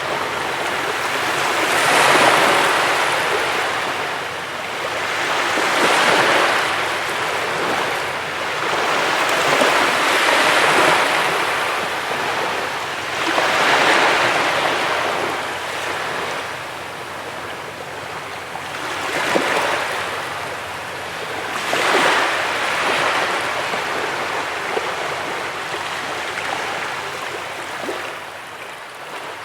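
Sea waves washing onto a beach, each one swelling into a hiss of surf and fading, about six times at intervals of roughly four seconds, the later ones a little softer.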